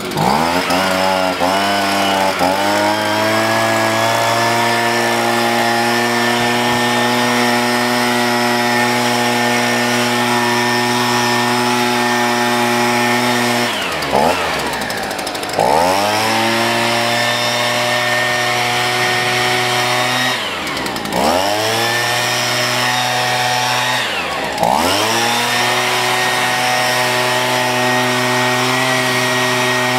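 Echo two-stroke gas leaf blower running at high throttle. It climbs up to speed over the first two seconds or so, then three times its pitch drops sharply and climbs back as the throttle is let off and squeezed again.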